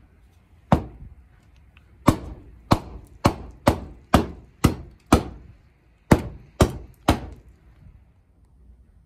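Hammer striking drywall, knocking holes in it for wiring boxes: about eleven sharp blows, roughly two a second, with a short pause after the first and after the eighth.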